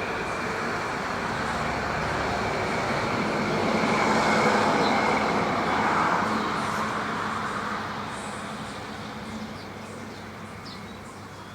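Road traffic noise: a passing vehicle that swells to its loudest about halfway through and then slowly fades away.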